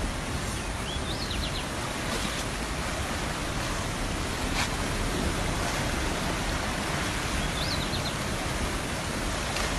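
Steady rushing of water, with two short high chirps about a second in and near the end.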